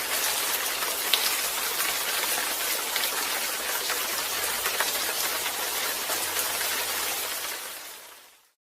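Rain sound effect: steady falling rain, an even dense hiss with fine drop ticks, fading out near the end.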